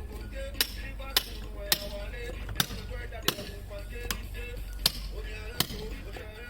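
Sharp knocks, like hammer blows, about every three-quarters of a second, over background music.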